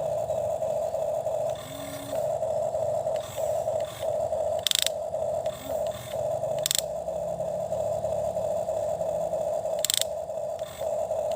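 Small electric motor of a toy excavator whining steadily, stopping and restarting many times in short bursts, with a few sharp plastic clicks.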